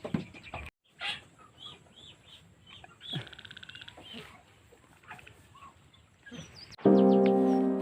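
Birds chirping and calling, with a rapid trill of about a second near the middle. Background music with sustained piano chords starts abruptly near the end and is the loudest sound.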